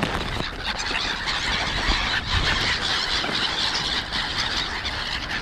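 A flock of wild birds calling at once, a dense high-pitched chorus of squeals as they gather at scattered feed.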